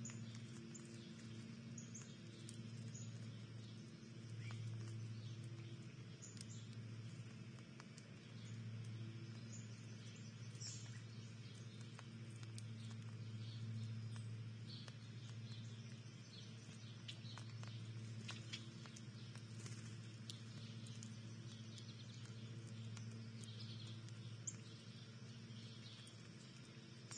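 Backyard ambience at a bird feeder: scattered faint bird chirps and small ticks and pattering, over a steady low hum.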